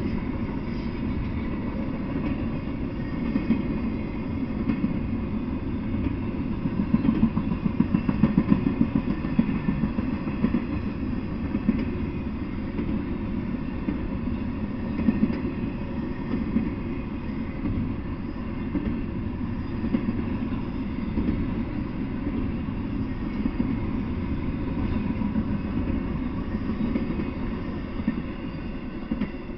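Double-stack intermodal freight train rolling past: a steady rumble of steel wheels on rail with a few louder clanks, fading as the last car goes by at the very end.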